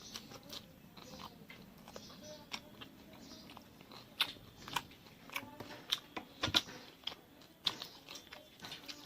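A person chewing and eating food close to the microphone: irregular short clicks and smacks of the mouth, several a second, busiest in the middle of the stretch.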